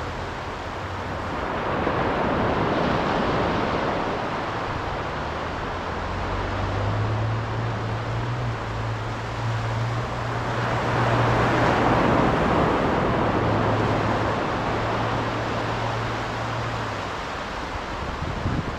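Ocean waves breaking: rushing surf that swells twice, about two seconds in and more loudly around eleven seconds. A low steady hum sits underneath through much of it.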